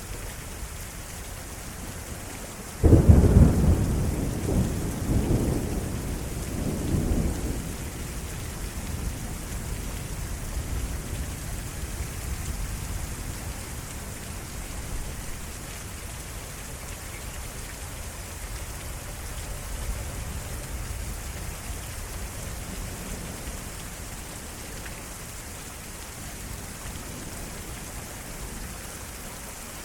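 Heavy rain falling steadily in a severe thunderstorm. About three seconds in, a sudden loud clap of thunder breaks out and rolls on in several rumbles, fading over the next ten seconds or so.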